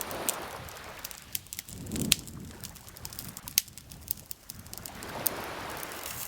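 Campfire crackling with scattered sharp pops, the loudest about two seconds in, over water lapping gently in soft swells near the start and again about five seconds in.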